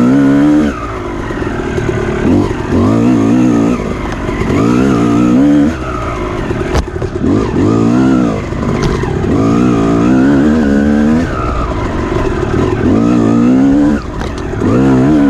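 Off-road dirt bike engine revving up and down over and over as it is ridden hard on a trail, the pitch climbing and dropping with each throttle opening and roll-off. A brief sharp click about seven seconds in.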